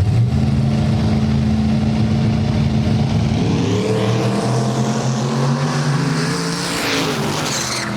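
A race car's engine running at a steady note, then accelerating hard from about three seconds in, its pitch climbing steadily until near the end.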